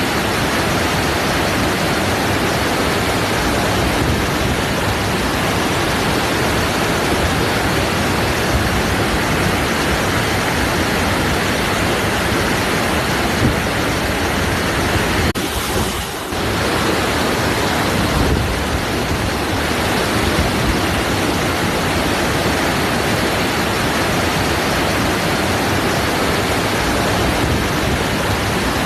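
Waterfall: a steady rush of falling water, with a brief dip in level about halfway through.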